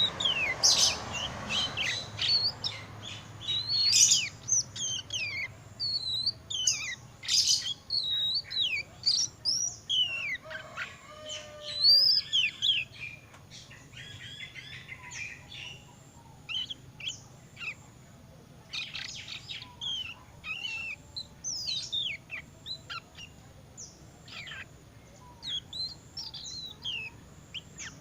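Juvenile Oriental magpie-robin in spotted plumage giving its practice subsong: a rambling run of short, varied whistles and chirps that rise and fall in pitch, busy for the first half and sparser and quieter later.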